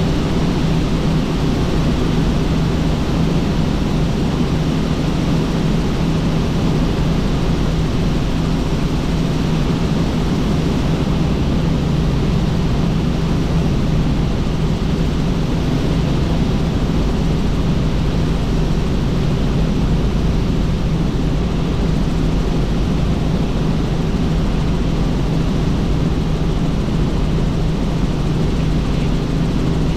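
Helicopter in flight: steady drone of the engine and rotor, with a low hum and rushing air noise that stay constant.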